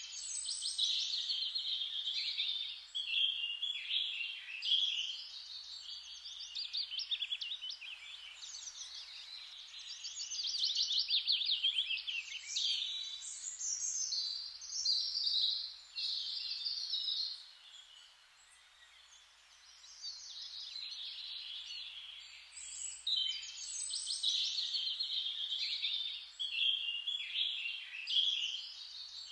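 Several songbirds singing and chirping together in a dense, overlapping chorus of high trills and twitters, with a brief lull about two-thirds of the way through.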